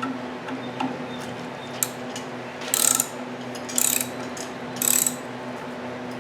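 Ratchet wrench clicking in three short runs about a second apart as the clutch pressure plate bolts are loosened.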